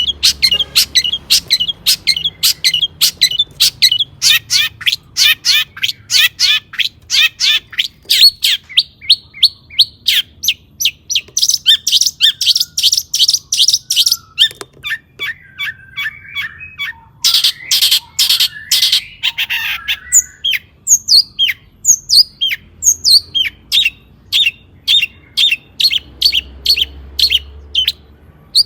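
Long-tailed shrike (cendet) singing hard: a fast run of sharp, high, repeated notes, several a second, with a harsher scratchy burst about two-thirds of the way through.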